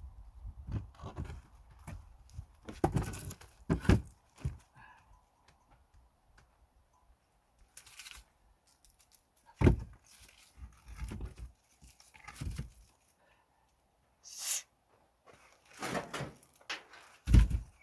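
Pine firewood logs being handled and set down: irregular, heavy wooden thuds and knocks, with short scraping rustles between them. The loudest thuds come about ten seconds in and again near the end.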